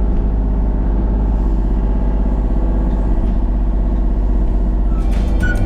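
An engine running steadily, with music starting near the end.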